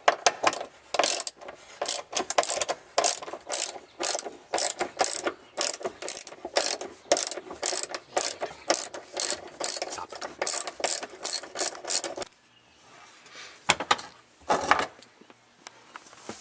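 Hand ratchet clicking in repeated back-strokes, about two a second, as a seat-belt anchor bolt is loosened. The clicking stops about twelve seconds in, followed by two knocks.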